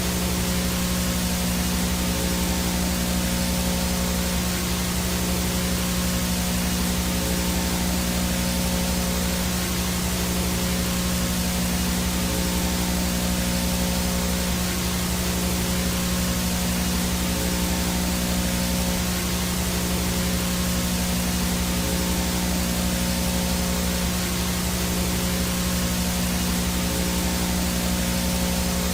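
VHS/analog TV no-signal static: a steady hiss with a strong low buzzing hum underneath, a few fainter steady tones in the middle and a thin high whine on top, unchanging throughout.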